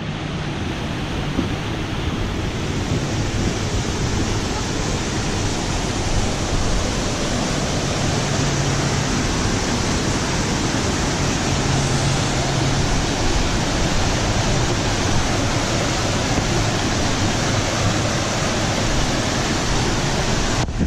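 Steady rushing water of a fast-flowing river, an even unbroken roar.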